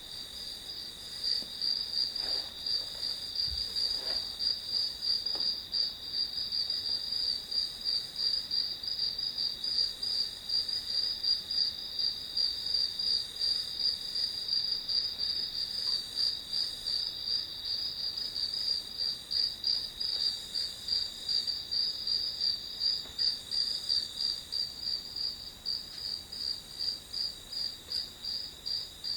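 Crickets chirping steadily: a high, even trill that pulses in a regular rhythm.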